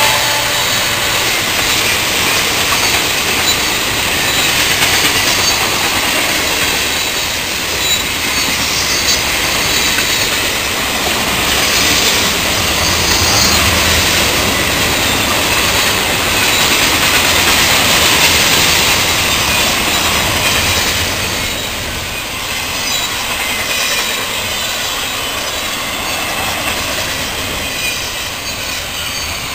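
Cars of a mixed freight train rolling past at close range: steady wheel-on-rail noise with a thin, wavering squeal from the wheels, easing slightly about two-thirds of the way through.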